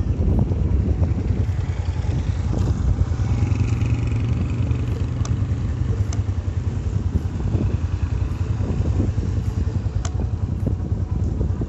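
Motorcycle engine running while the bike is ridden, with wind on the microphone and a few light clicks. No brake squeal stands out, fitting drum brakes just cleaned of their noise.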